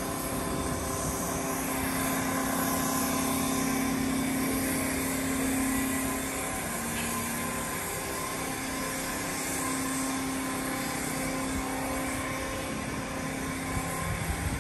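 Steady hum of trains standing at a station platform, a low drone that dips slightly in pitch for a moment about six to eight seconds in.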